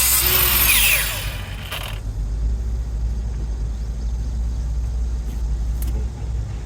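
A power tool's loud hissing grind stops about a second in and spins down with a falling whine. Then there is a steady low rumble with a couple of faint clicks.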